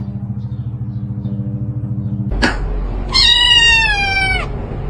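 A cat gives one long meow, a little over a second long and falling slightly in pitch at the end, about three seconds in. It comes after a sharp click and a low, pulsing hum that runs through the first two seconds.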